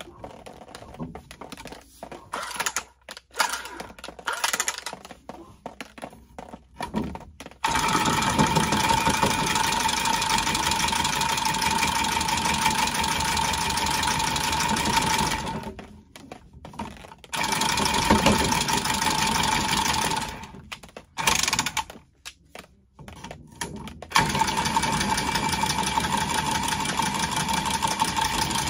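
Milwaukee cordless copper tubing cutter running as it cuts through copper water pipe. Its small motor runs steadily with a whining tone in three stretches: a long one, a short one and a medium one, with brief pauses between. The first part holds scattered clicks and knocks of the tool being handled and fitted onto the pipe.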